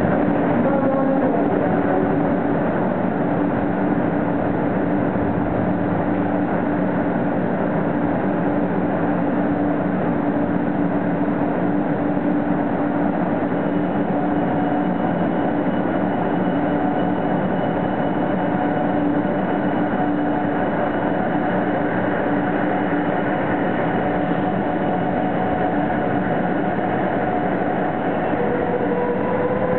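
Shinkansen 500 series high-speed train starting to pull out of the station: a steady hum from the train, with traction-motor tones that come in about halfway and begin to rise in pitch near the end as it gathers speed.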